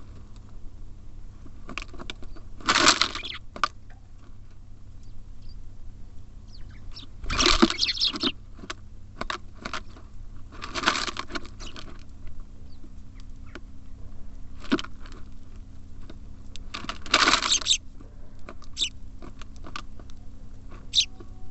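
Small birds at a feeder, pecking and scratching at seed in quick irregular taps and clicks, with four louder flurries of rustling and fluttering.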